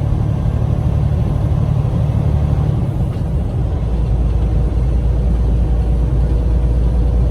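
2021 Freightliner Cascadia semi truck running at highway speed: a steady low engine and road rumble, which deepens and strengthens about four seconds in.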